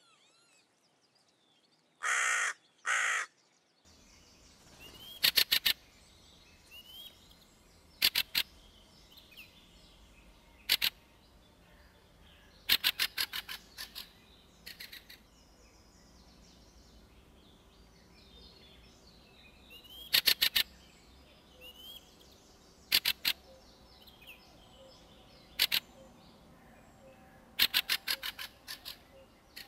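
Two loud hooded crow caws a little over two seconds in. From about four seconds a fieldfare gives its harsh chattering calls, quick runs of rattling notes repeated every few seconds, with faint songs of other birds behind.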